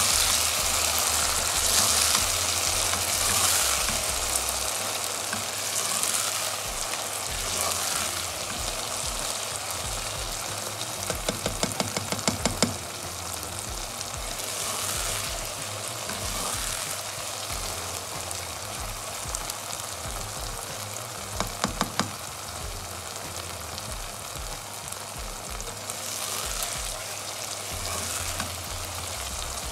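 Okra with onion and tomato sizzling in oil in a pan while being stirred with a metal spoon. There are runs of quick clicks about eleven and twenty-one seconds in, as the spoon scrapes against the pan.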